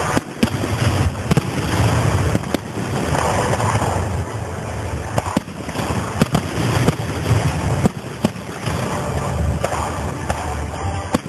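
Aerial fireworks exploding: irregular sharp bangs, about a dozen, some with crackle, over a continuous low rumble.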